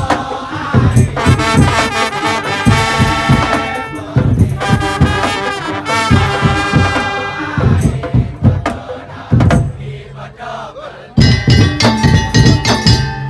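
Madurese tong-tong ensemble playing: a loud wind instrument carries a held melody over thumping drums and percussion. The drums thin out partway through and come back in strongly near the end.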